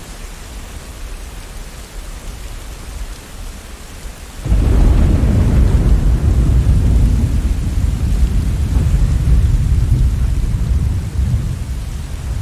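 Steady rain, then about four and a half seconds in a sudden loud, deep rumble of thunder that carries on for several seconds and eases a little near the end.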